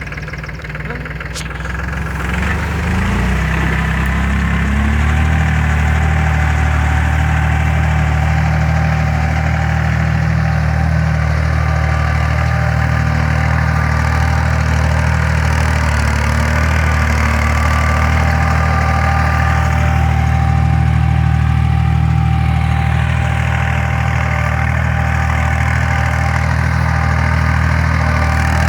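Force tractor's diesel engine speeding up over the first few seconds, then running steadily under load while pulling a plough, with a faint steady whine above the engine note.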